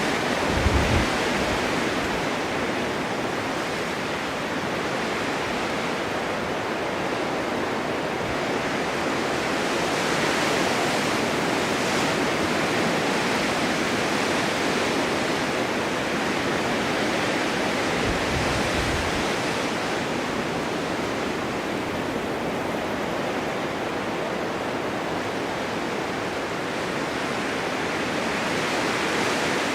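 Blizzard wind on a winter mountain: a steady rushing hiss of wind-blown snow, with a brief low rumble about a second in and another about two-thirds of the way through.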